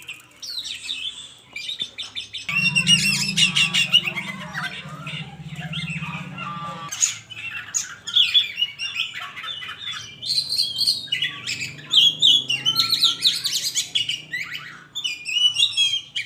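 A songbird singing a loud, varied song of rapid chirps and trills, with a steady low buzz underneath for a few seconds near the start.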